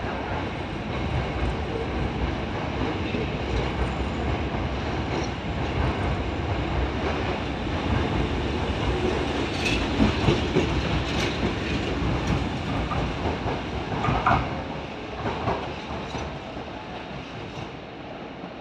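Hankyu 6000 series electric train running out past the platform: a steady rolling rumble of its wheels, with a run of sharp clacks over rail joints around the middle. The sound fades away over the last few seconds as the last car leaves.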